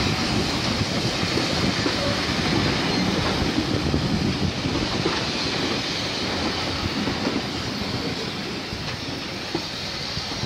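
A train of vintage passenger coaches rolling past close by, wheels running on the rails. The sound eases off near the end as the last coach passes.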